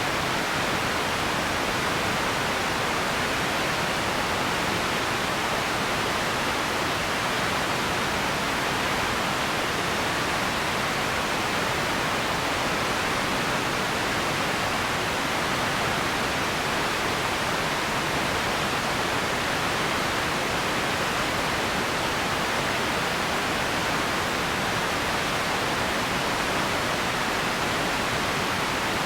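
Empty-room ambience: a steady, even hiss, strongest in the middle range and unchanging, with no distinct events.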